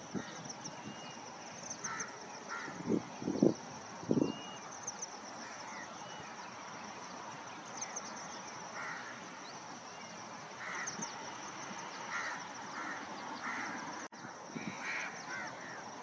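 Wild birds calling: a steady run of high repeated chirps, scattered shorter calls, and three loud low calls about three to four seconds in.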